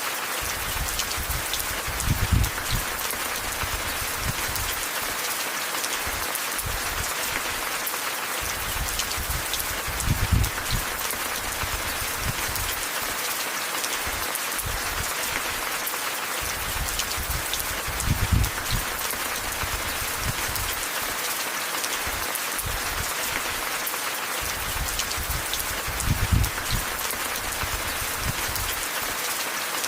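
Steady rain falling, an even hiss of drops. A short low rumble swells in four times, about every eight seconds.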